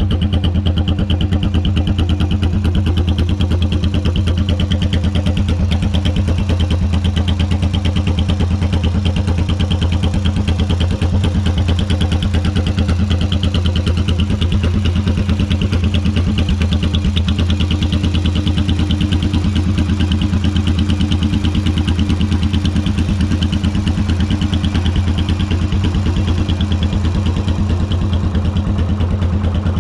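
2005 Yamaha V-Star 1100's air-cooled V-twin engine idling steadily, with an even, low pulsing exhaust note.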